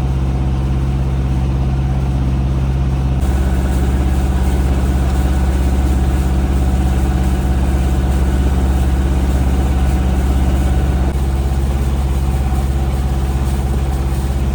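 A sailboat's auxiliary motor running steadily under way, a loud low drone. Its tone changes abruptly about three seconds in and again about eleven seconds in.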